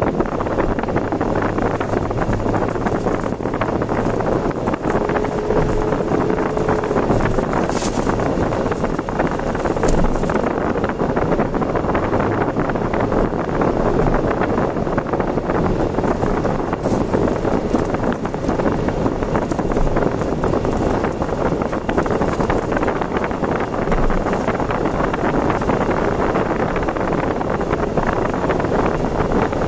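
Steady road and wind noise of a car travelling at speed on an expressway.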